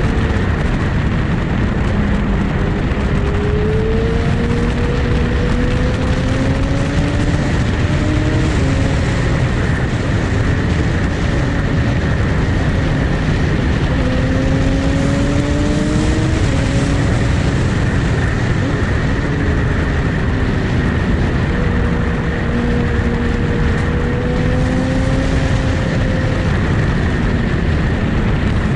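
Sport motorcycle engine riding along, its pitch climbing slowly and then dropping several times, as with gear changes, under a loud steady rushing noise.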